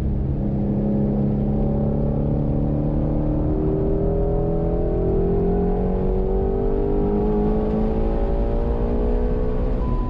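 2018 Shelby GT350's 5.2-litre flat-plane-crank V8 heard from inside the cabin, accelerating hard with its pitch climbing steadily through the gear.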